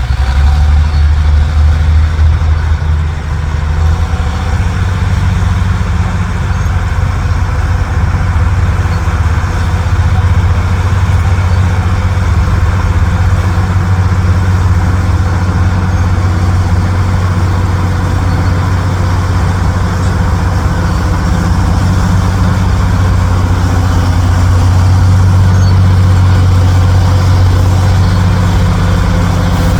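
Dump truck's diesel engine running steadily with a deep, low drone; the engine note shifts slightly about three or four seconds in and grows a little louder near the end.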